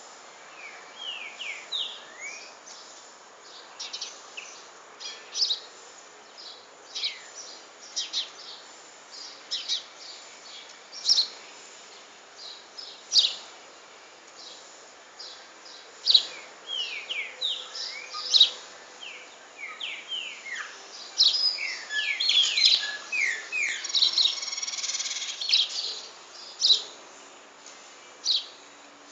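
Kept songbirds chirping and calling with many short, sharp notes, growing busier through the second half.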